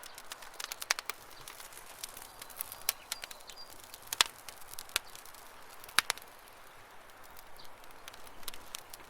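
Campfire crackling: irregular sharp pops and snaps of burning wood, two of them much louder than the rest, about four and six seconds in.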